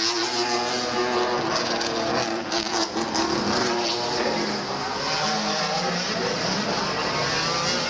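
2-litre Super Touring race car engines running at high revs as several cars pass. The engine note shifts in pitch throughout.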